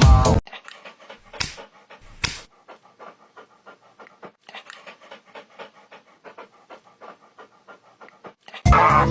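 A dog panting fast and steadily, about three to four breaths a second, with two sharp knocks near the start.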